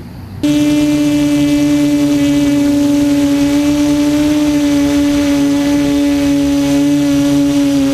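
QAV400 quadcopter's electric motors and propellers spinning up abruptly about half a second in, then running loud at a steady pitch.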